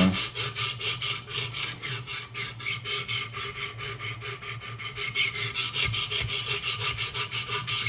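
Wicked Edge guided sharpener's stones stroking along the edge of a Benchmade 725 Kodiak Skinner knife blade: a fast, even rasping rhythm of about five or six strokes a second that stops abruptly near the end.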